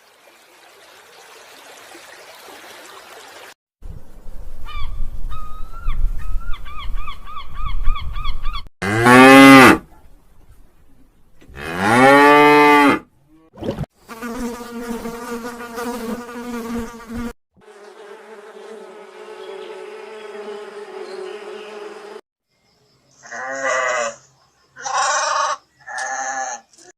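A string of separate animal sounds, one after another: a wavering insect buzz over a low rumble, then two loud, long cow moos bending in pitch, then two steadier held calls, and three short calls near the end.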